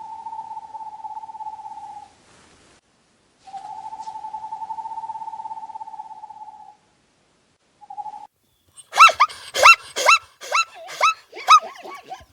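Animal calls: two long, steady, trilling notes, a brief third, then a quick run of about eight sharply falling calls.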